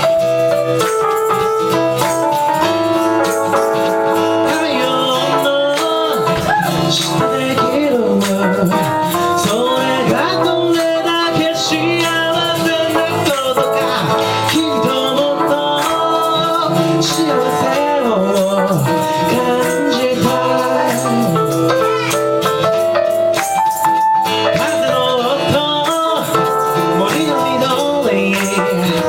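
Live ragtime blues played on acoustic instruments, with a shaker rattling along and a voice singing in places.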